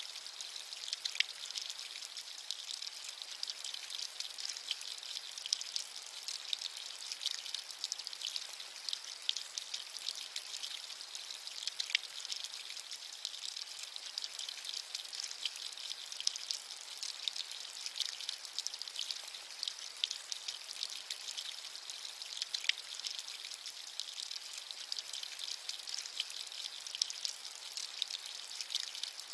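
Steady rain: a dense patter of drops over an even high hiss, with a few louder single drops standing out now and then.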